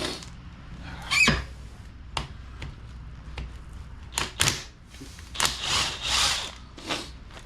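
Hand tools knocking and scraping on the metal rear axle housing during the differential teardown: scattered sharp clicks, a loud clank with a brief squeal about a second in, and several short scraping, hissing bursts later on.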